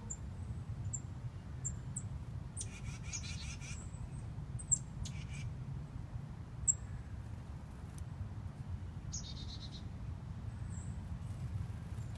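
Small songbirds calling with short, high chip notes scattered through, and two brief rapid stuttering series, over a steady low rumble.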